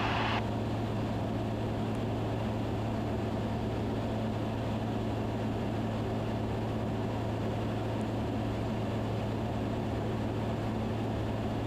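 Steady drone of a Van's RV-10's piston engine and propeller in cruise, heard through the cockpit intercom as a constant low hum under a hiss. The brighter part of the hiss drops away about half a second in.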